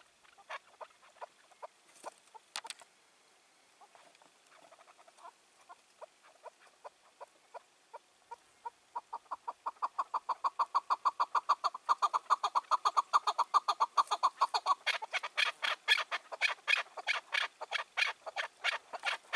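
Chukar partridge calling: scattered single clucks at first, then about nine seconds in a fast, even run of clucking notes, several a second, that grows louder toward the end.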